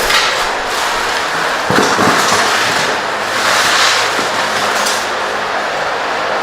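Packing material rustling and crackling as a boxed motorcycle engine is handled, with a few light knocks.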